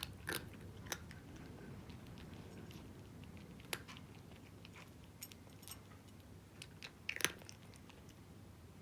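A cat crunching dry kibble: irregular sharp crunches at an unhurried pace, the loudest about halfway through and again near the end.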